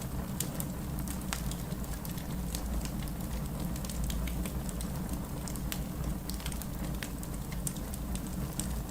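Fireplace fire crackling with frequent sharp pops over a steady low rumble of rain.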